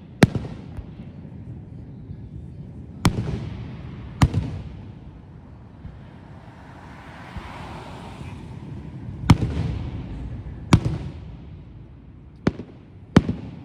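Aerial fireworks bursting: seven sharp booms at uneven gaps, each trailing off in a rumbling echo, with a rushing hiss in the middle stretch.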